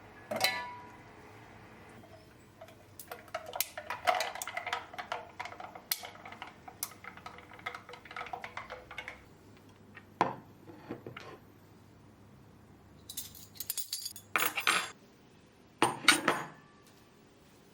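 Dishes and cutlery clinking and clattering as they are handled and set down, in scattered bursts, with one ringing clink just after the start.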